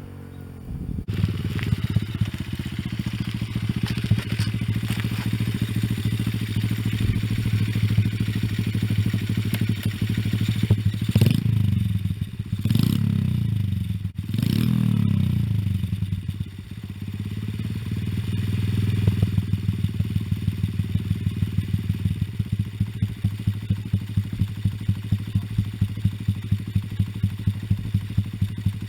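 Honda Magna 50 bored to 88 cc, its single-cylinder engine running through a variable-volume muffler, with a microcontroller 'Dodosuko' system shaping its beat into a Harley-style lope. It gets louder about a second in. Around the middle it is blipped three times in quick succession, each rev rising and falling. It then settles back to idle, with an even pulse of about two beats a second near the end.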